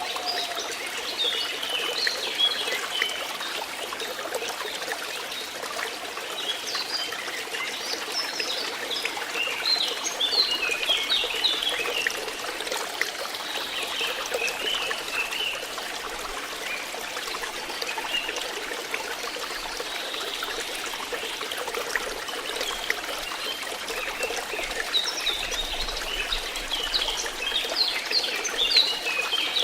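Water flowing and trickling steadily, with clusters of brief high chirping notes over it a couple of seconds in, around ten seconds in, and near the end.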